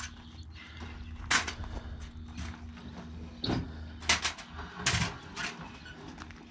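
A sawhorse being set up and handled: about seven sharp knocks and clatters, one early and the rest in a quick irregular cluster in the second half, over a steady low rumble.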